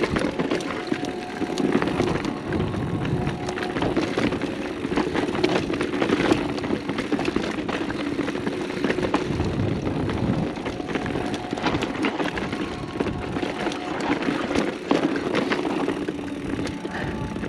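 Mountain bike coasting down rough dirt singletrack: a steady buzz from the rear freehub, with tyre noise and repeated clatter and knocks of the chain and frame over bumps.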